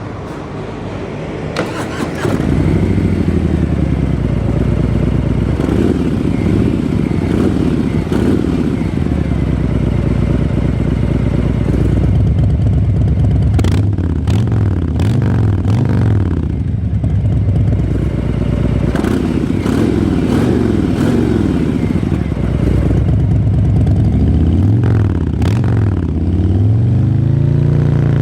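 Harley-Davidson Fat Boy's Milwaukee-Eight 114 V-twin, breathing through a Jekill & Hyde exhaust, starting about two seconds in and then idling with a loping beat. It is revved in several quick throttle blips, each rising and falling in pitch.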